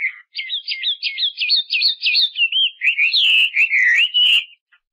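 A songbird singing. A quick run of repeated chirps turns into rapid sweeping notes and then slower warbling whistles, which stop shortly before the end.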